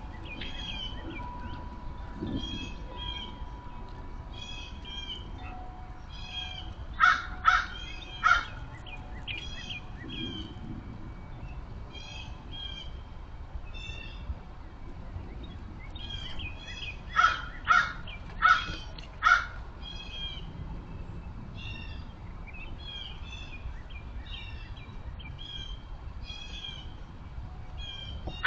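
Crows cawing in two bouts, three caws about seven seconds in and four or five more about seventeen seconds in, over a small songbird's steady, repeated high chirping.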